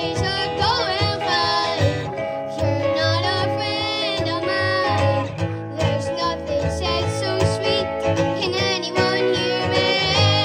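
Acoustic guitar playing, with high, wavering wordless singing over it in stretches.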